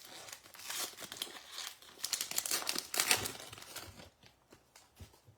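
A baseball card pack's wrapper being torn open and crinkled by hand, with a few light ticks near the end as the cards come out.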